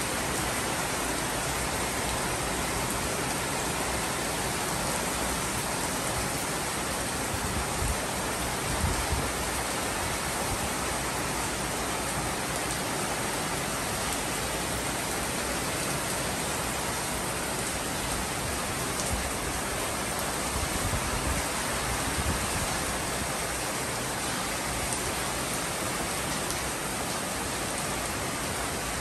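Heavy rain pouring down steadily: a dense, even hiss of rain falling on foliage and a flooded street.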